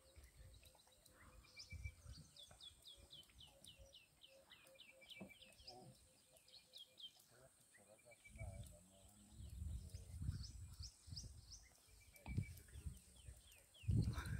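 Faint birdsong: runs of quick, falling chirped notes, repeated in two bouts, over a steady high insect hum. Low muffled rumbles come in from about the middle onward.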